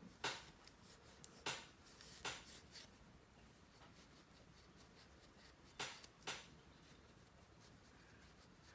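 Polishing cloth rubbing over a replica sonic screwdriver prop: six short, faint swishing strokes, three in the first three seconds and two close together about six seconds in.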